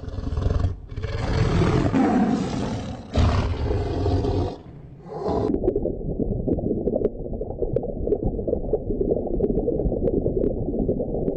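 A large animal roaring in rough calls for about four seconds, then a lower, continuous growl that cuts off suddenly at the end.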